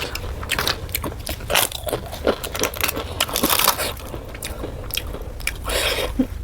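Close-miked eating: crisp crunching bites and chewing in an irregular run of short crackles.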